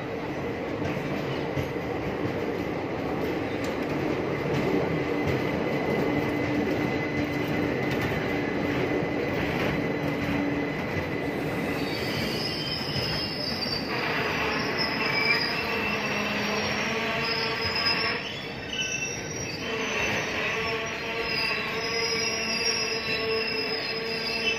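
Indian Railways passenger train of sleeper and AC coaches rolling past on the rails, with a steady rumble of wheels on track. About halfway through, several steady high squealing tones from the wheels join in and continue.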